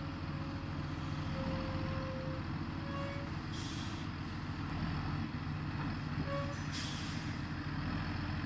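John Deere 7530 tractor's six-cylinder diesel engine running steadily, with two short hisses about three and a half and seven seconds in.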